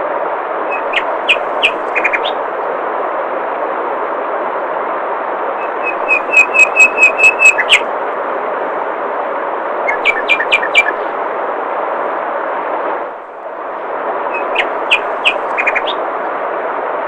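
Steady rush of flowing water with songbirds calling over it in short phrases: a few chirps about a second in, a run of about eight loud, evenly repeated notes about six seconds in, and more chirps around ten seconds in and near the end.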